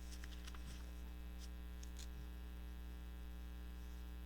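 Steady electrical mains hum in the recording, with a few faint ticks and rustles of paper being handled during the first two seconds.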